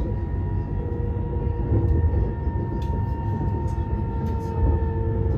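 Cabin noise of a Chinese high-speed bullet train running at speed: a steady low rumble with a faint steady whine over it.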